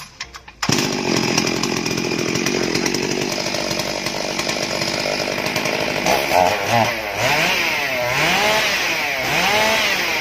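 Stihl MS 382 two-stroke chainsaw engine running. It comes in about half a second in, runs steadily, and is revved up and down several times in the second half.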